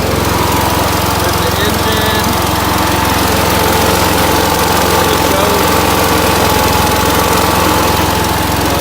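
Engine of a 2008 Boxer 530X mini skid steer running steadily at raised throttle, with a steady high whine over the engine note.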